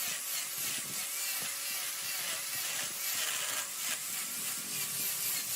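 Wood lathe turning a mahogany workpiece, a cutting tool scraping against the spinning wood with a steady high-pitched hiss.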